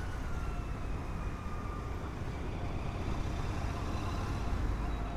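Road traffic heard from a moving motorcycle: a steady low engine and road rumble, with faint high tones gliding slowly downward.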